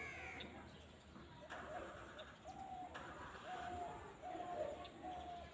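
A bird calling: a series of about five short, level hooting notes, a little under a second apart, over quiet field ambience.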